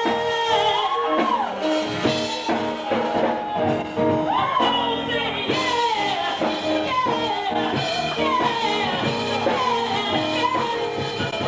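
Live gospel worship music: voices singing over held instrumental chords.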